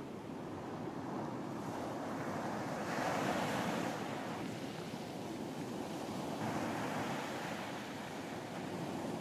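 Ocean waves breaking and washing onto a beach, a steady surf noise that swells louder about three seconds in and again around seven seconds.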